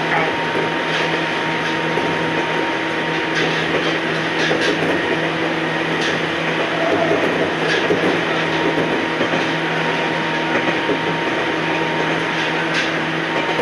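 Ohmi Railway electric train running along the line: a steady hum of the running gear with several held tones, and scattered wheel clicks over the rail joints.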